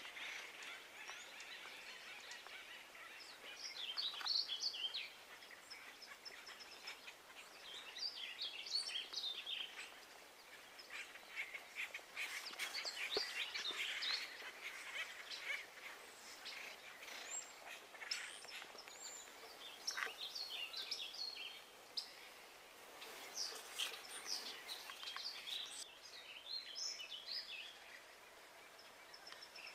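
Small birds chirping on and off in short clusters, over a faint steady outdoor background with a few scattered faint clicks.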